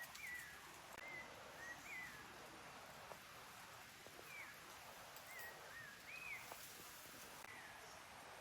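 A bird calling faintly: short whistled notes, some bending up then down, repeated about once a second over a steady hiss of background noise.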